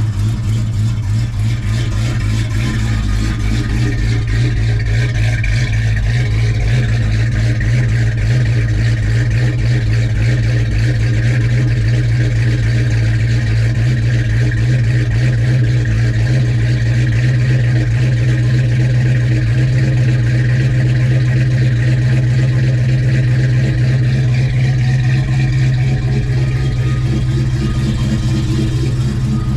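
Dodge Dart's engine idling steadily while still cold, with a light exhaust-leak tick that the owner traces to loose pipe and manifold connections.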